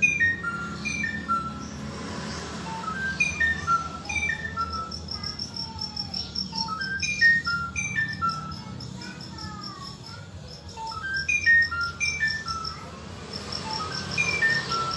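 A songbird singing repeated runs of short clear whistled notes, each run stepping down in pitch. A fast, high, insect-like trill comes and goes alongside it over a steady low hum.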